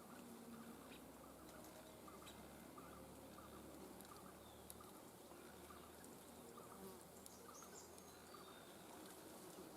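Faint outdoor ambience: a soft chirp repeating steadily about twice a second, with a few faint distant bird calls.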